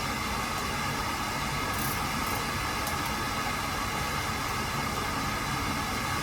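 Carlin oil burner firing steadily with its cover off, the blower and flame running loud and even.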